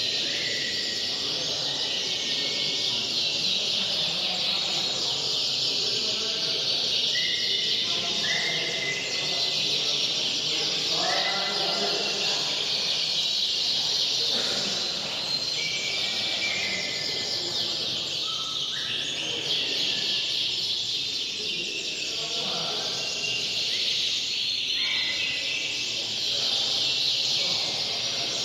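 Many domestic canaries singing at once: a dense, unbroken chorus of high trills and chirps, with short clear whistled notes standing out now and then.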